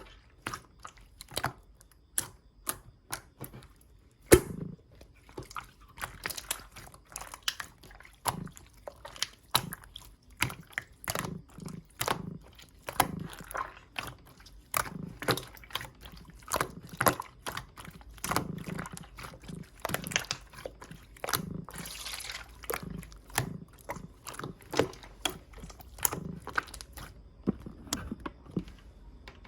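Clear slime squished and worked by hand, giving irregular wet clicks and pops, several a second, with a few louder pops.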